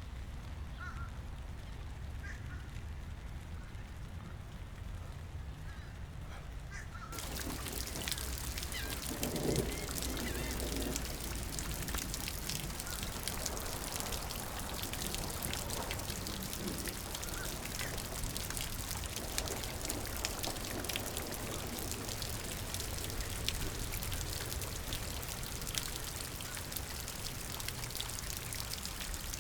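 Rain pattering densely in many close, sharp drops, starting abruptly about seven seconds in. Before that, a low rumble with a few faint bird chirps.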